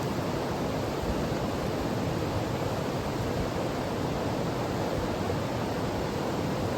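Mountain stream rushing steadily over rocks, an even, unbroken wash of water noise.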